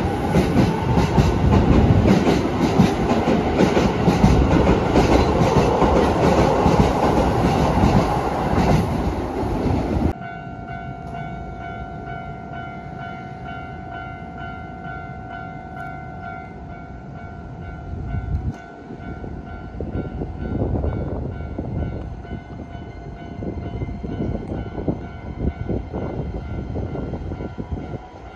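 Keisei 3000-series electric commuter train moving past close along the platform: loud wheel rumble and clatter with a motor whine shifting in pitch. About ten seconds in it cuts to quieter station sound, with another train at the platform, steady tones over a low hum, and intermittent wheel clatter later.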